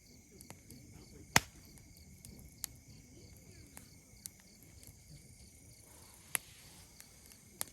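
Wood campfire crackling, with a few sharp pops, the loudest about a second and a half in, over steady chirring of insects.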